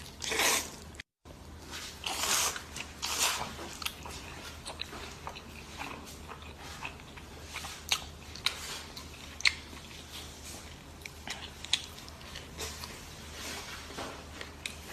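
A person eating close to the microphone: a few louder bites in the first three seconds, then steady chewing with many scattered short, sharp clicks and smacks.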